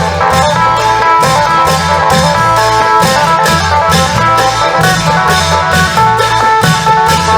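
Isan folk music: a phin lute playing a bright plucked melody over the steady beat of a klong yao long-drum band.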